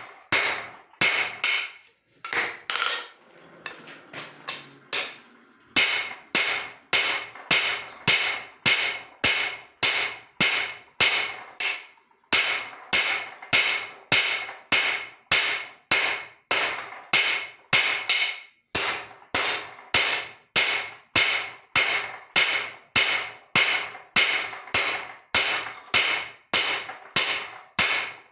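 Hand hammer forging steel leaf spring on an anvil: steady blows about two a second, each with a bright ring. The hammering stops for a few seconds early on, then resumes with brief breaks.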